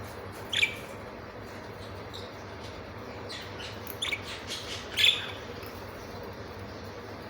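Budgerigars chirping in short, sharp calls: one about half a second in, then a quick cluster of chirps around three to five seconds in, the loudest near the end of that cluster.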